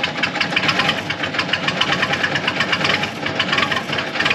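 Diesel tractor engine idling with a fast, even clatter just after a glow-plug start, and staying running.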